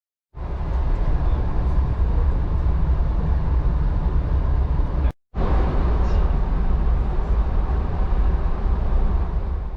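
Passenger train running, a steady rumble heavy in the low end. It breaks off for a moment about five seconds in and then resumes.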